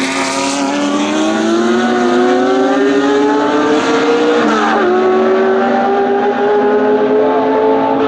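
Racing car engine accelerating hard through the gears: its pitch climbs steadily, drops sharply at an upshift a little under five seconds in, then climbs again.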